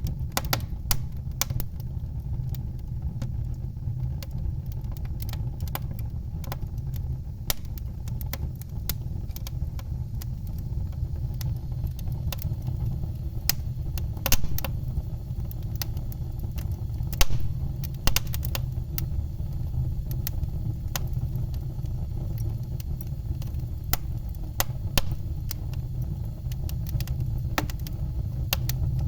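Wood fire crackling: irregular sharp pops and snaps over a steady low rumble of burning, with two louder pops about halfway through.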